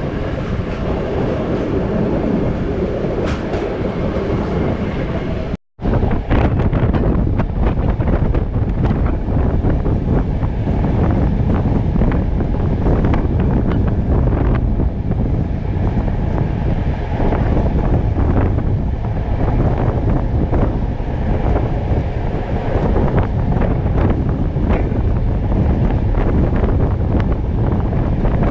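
Moving passenger train heard from an open carriage window: steady running rumble of wheels on rails with scattered clicks, and heavy wind buffeting on the microphone. The sound cuts out for a split second about six seconds in, and the wind rumble is stronger after it.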